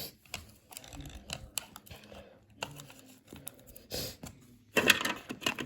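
Light plastic clicks and scrapes from handling a Roborock robot vacuum's removable dustbin as it is fitted back into the robot, with a quicker, louder run of clicks near the end.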